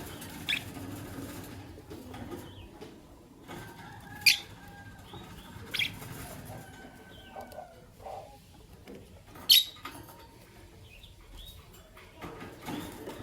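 Masked lovebirds (green and albino) giving short, sharp, high-pitched chirps, four loud ones spread out, with softer whistled twitters and some rustling between them.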